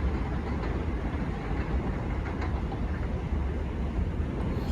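IRT subway train running, a steady rumble with no distinct clanks or stops.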